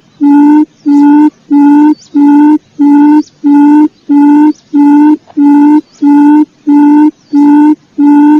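Quail lure call recording played on a loop: a low, buzzy hooting note repeated steadily about twice a second, each note short and evenly spaced.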